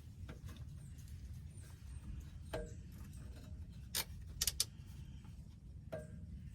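Scattered sharp clicks and light metallic clinks from hand tools and parts being handled during clutch linkage adjustment, the loudest a quick cluster of clicks about four seconds in, over a steady low rumble.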